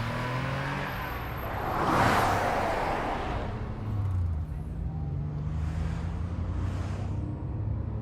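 Car engine running with a steady low hum, and a vehicle passing by with a rush of noise that swells about two seconds in and fades, with fainter rushes near the end.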